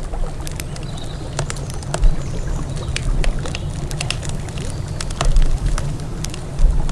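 Wood campfire crackling, with many sharp irregular pops and snaps, over a steady low rumble of a flowing river.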